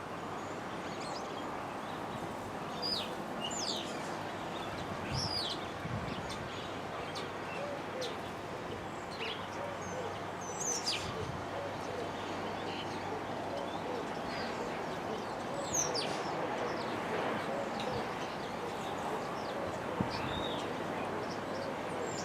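Wild birds chirping: many short, sharp, falling calls scattered throughout, over a steady background hiss, with a few faint low knocks.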